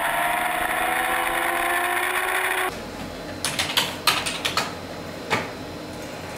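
Racing motorcycle engine at high revs, its pitch slowly rising, cutting off abruptly a little under three seconds in. Then a quieter room with a handful of irregular computer-keyboard key clacks.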